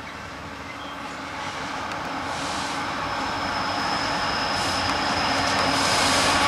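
Freight train approaching behind a GE ES44AC diesel locomotive, its engine rumble and rolling noise growing steadily louder as it nears. A thin high-pitched whine comes in about two and a half seconds in.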